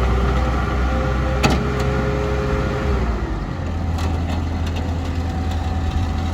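Bobcat 864G loader's diesel engine running at raised revs, then dropping to a steady idle about three seconds in, with a sharp click about a second and a half in.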